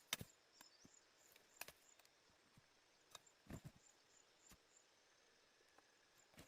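Near silence, broken by a few faint clicks and knocks about a second or so apart, with faint, short high chirps repeating in two short runs.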